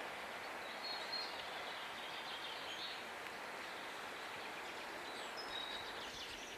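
Short bird chirps now and then over a steady, quiet outdoor hiss.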